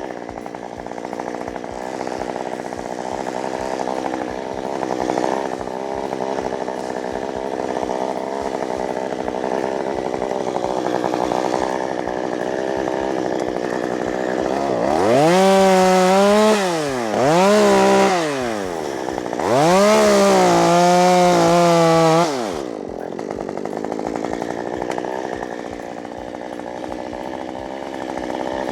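Chainsaw engine running steadily at part speed, then revved up to full throttle three times in quick succession about halfway through, each time holding high before dropping back, while cutting up a crape myrtle trunk broken in a snowstorm.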